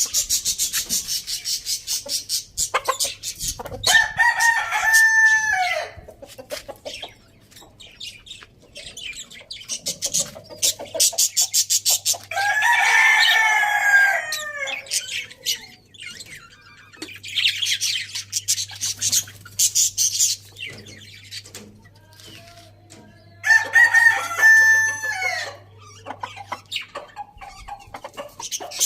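A rooster crowing three times, each crow about two seconds long and spaced roughly ten seconds apart, with chickens clucking and rapid high-pitched ticking in between.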